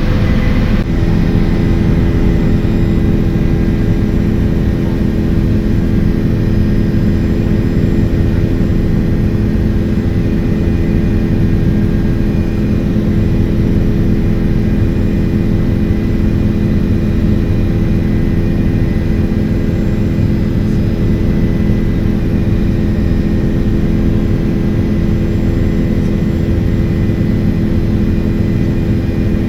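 Helicopter in flight: steady engine and rotor noise with several constant tones running through it.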